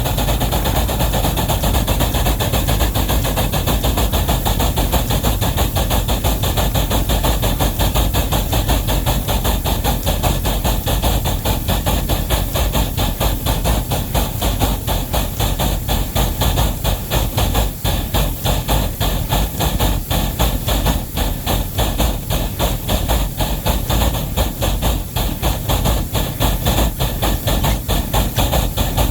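Wabash No. 713 steam locomotive working a heavy train: a steady, rapid run of exhaust beats with steam hiss.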